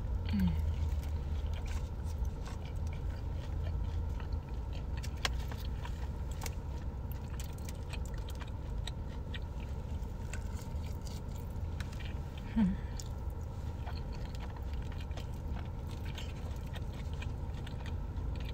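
Close-up eating sounds: chewing with small wet mouth clicks and smacks while eating a sauce-dipped chicken tender, with a couple of brief closed-mouth hums, one just after the start and one about two-thirds of the way through. A steady low hum sits underneath, typical of a car cabin.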